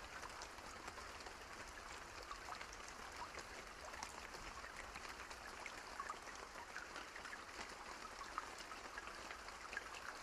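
Steady rain: an even hiss with many separate drops heard falling.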